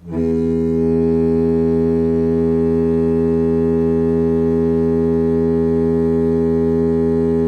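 Air horn sounding one long, steady, low blast that starts abruptly and holds without a break.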